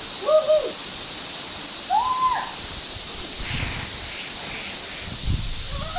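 Two short hooting 'ooh' cries from a person's voice, each rising and then falling in pitch, one near the start and one about two seconds in.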